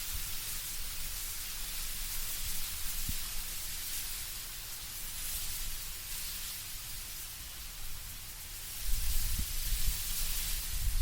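Wind blowing through autumn trees, a steady rustling hiss of leaves. A stronger gust with a low rumble comes in near the end.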